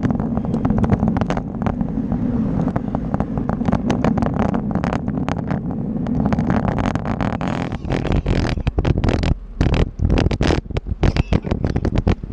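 Wind buffeting the microphone of a camera riding along on a bike, a loud low rumble broken by frequent knocks and rattles, turning gustier and choppier in the second half.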